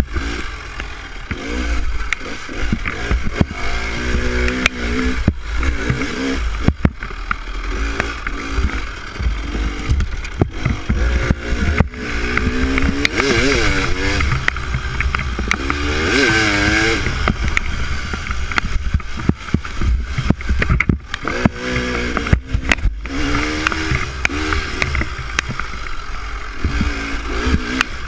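Dirt bike engine revving up and down again and again while riding a trail, with many scattered knocks and rattles.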